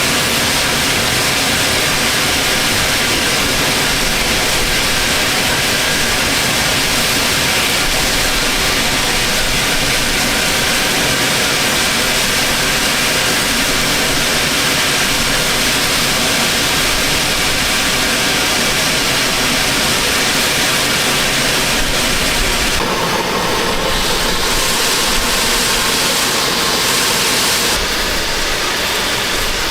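Steady, loud running noise of a narrow-gauge train on the move, with a slight change in its sound about 23 seconds in.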